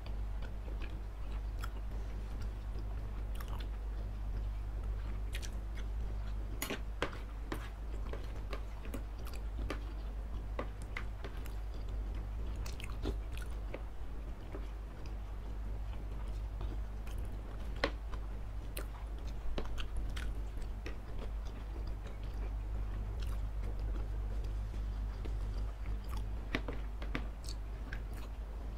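Close-miked chewing, biting and mouth sounds of people eating chicken and beef satay and soupy fried noodles, with many scattered sharp clicks over a steady low hum.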